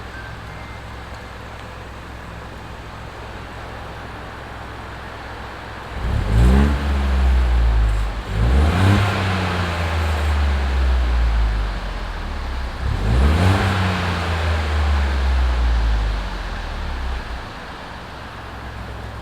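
Ford Fiesta Zetec S EcoBoost engine, on its standard exhaust and fully warmed up, idling and then revved three times in quick succession before settling back to idle. The exhaust note echoes off the underground car park walls.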